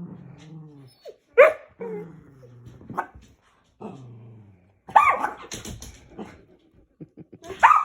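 Dog growling and barking: low, drawn-out growls broken by about four short, sharp barks.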